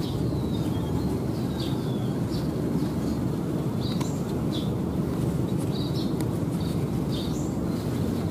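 Small birds chirping in short, high calls, one or two a second, over a steady low outdoor rumble.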